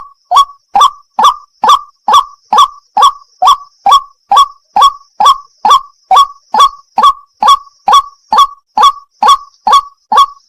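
White-breasted waterhen (burung wak-wak) calling: a loud, sharp note centred near 1 kHz, repeated at an even pace of about two calls a second.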